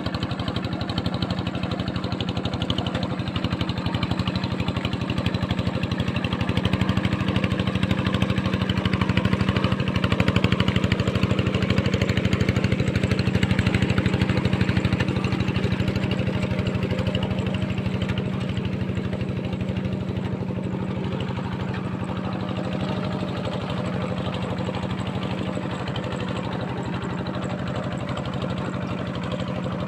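Diesel tractor engine running steadily, working a field; it grows louder for several seconds in the middle, then eases back.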